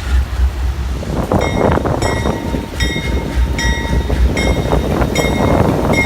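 A freight train rumbling under heavy wind buffeting the microphone. About a second and a half in, a bell starts dinging steadily, roughly once every 0.8 seconds.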